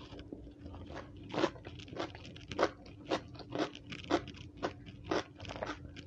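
Raw small round brinjal (eggplant) being bitten and chewed with crisp crunches, evenly paced at about two a second, starting about a second and a half in.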